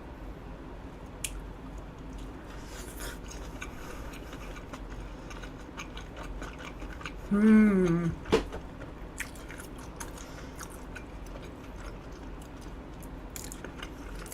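Close-up chewing of a mouthful of grilled eel over rice, with soft wet mouth sounds and small clicks. About seven seconds in there is a short hummed "mm" that falls in pitch, followed by a sharp click.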